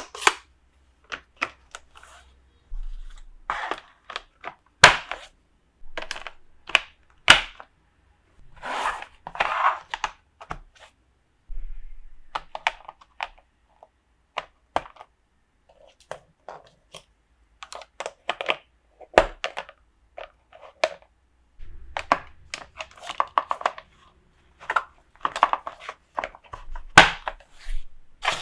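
Toy set being unboxed by hand: irregular clicks and taps of plastic pieces, with short rustles and crinkles of packaging.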